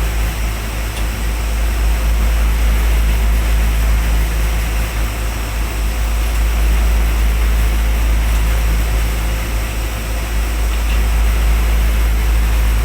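Steady, loud drone of running oxygen-plant machinery, a deep rumble with a constant low hum and hiss that does not change.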